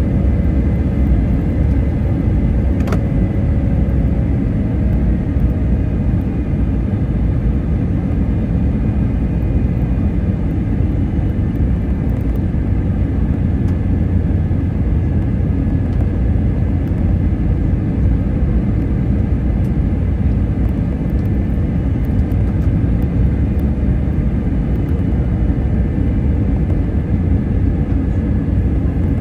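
Jet airliner's steady engine and air rumble during descent, with a faint steady whine above it.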